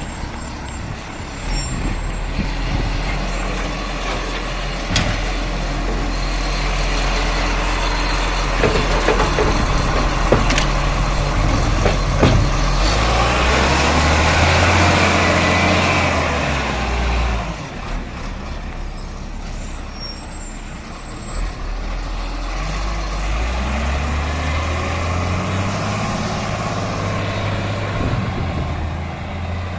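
Garbage truck engine running, revving up twice for several seconds each time, with a few knocks and clatters.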